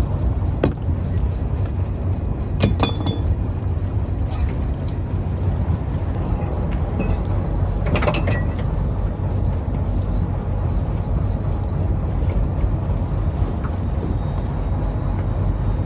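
Fishing trawler's engine running with a steady low drone. Sharp metallic clinks ring out a few times over it: once about a second in, near three seconds, and around eight seconds.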